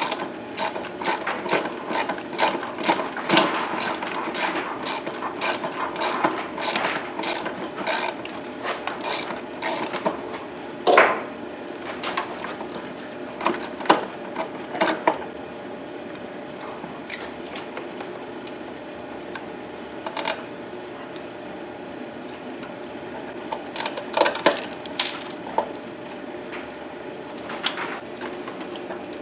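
Hand-tool work on the sawmill's wiring: a run of quick, even metallic clicks, two to three a second, for about ten seconds, then scattered clicks and a short flurry near the end, over a steady hum.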